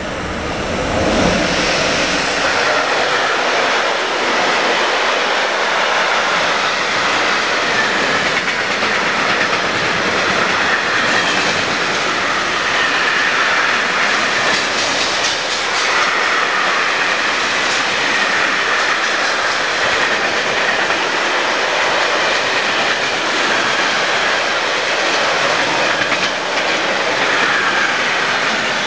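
Freight train passing close by: the two electric locomotives at its head reach the spot about a second in, then a long string of freight wagons goes by with a steady rumble and clatter of wheels on the rails.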